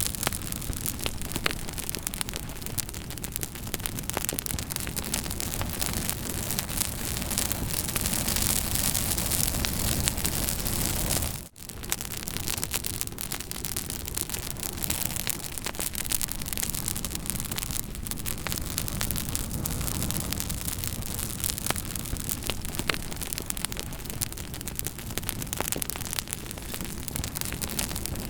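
Campfire burning with frequent crackles and pops over a steady rushing hiss. The sound cuts out for a moment about eleven seconds in.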